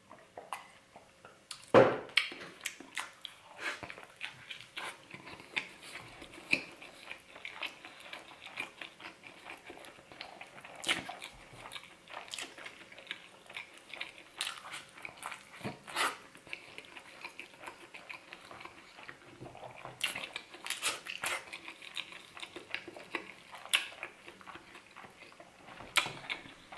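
Close-up chewing of a mouthful of breakfast burrito, with many wet mouth clicks and smacks. There is a sharper, louder click about two seconds in.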